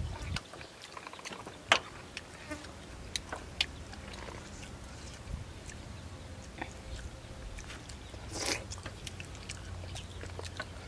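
Eating sounds: scattered soft clicks and smacks of chewing, as boiled chicken is torn apart by hand and eaten, with one louder noisy burst near the end. A faint low rumble runs underneath.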